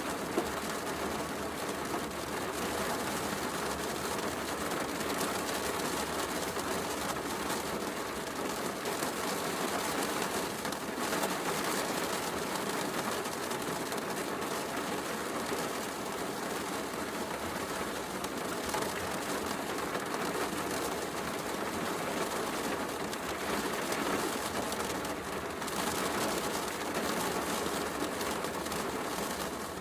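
Heavy rain falling steadily, with a wood fire crackling in a fireplace. There is a sharp pop about half a second in.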